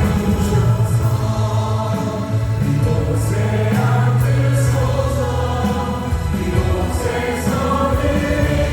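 Praise team singing a worship song together, several voices over keyboards with sustained bass notes and drums.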